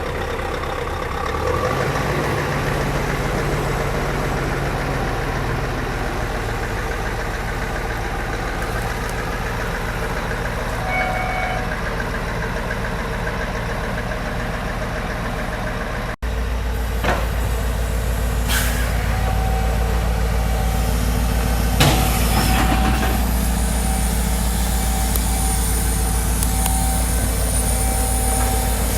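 Scania R770's 16.4-litre V8 diesel truck engine running steadily. About halfway through the sound cuts to a heavier, deeper engine note, with a few short sharp hisses or knocks in the second half.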